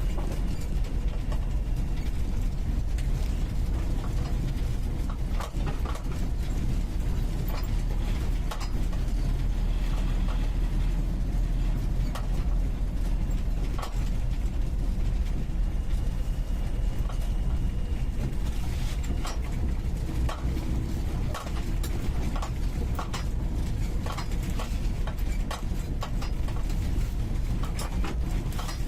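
UAZ 469B four-cylinder petrol engine running steadily under way, heard from inside the cabin. Frequent short knocks and rattles from the body and loose parts over the rough track come thickest in the second half.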